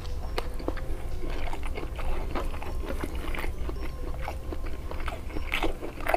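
Close-miked chewing: wet mouth clicks, smacks and small crunches coming irregularly, several a second, over a steady low hum.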